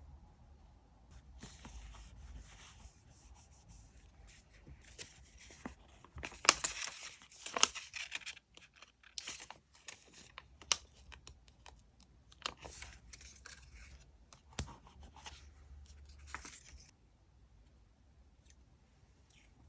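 Paper-crafting sounds from diary decorating: soft paper rustling, then a louder stretch of paper tearing about six seconds in. Scattered small taps and clicks follow, and the sounds die down near the end.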